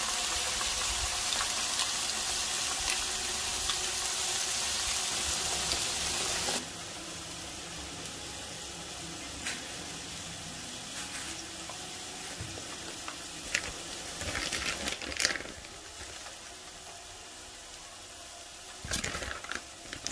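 Salmon fillets sizzling in oil in a frying pan, a loud steady hiss that cuts off abruptly about six and a half seconds in. After that comes the quieter sound of a wooden spoon stirring powdered green tea into hot water in a pot, with a few light knocks and scrapes, most of them around the middle and near the end.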